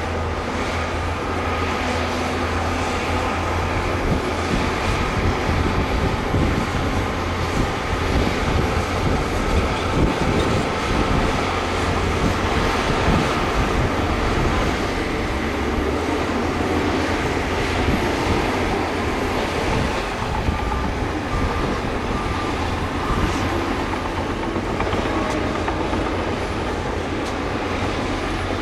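Heavy earthmoving machinery working: a diesel engine running steadily under load with a continuous clatter, without pause.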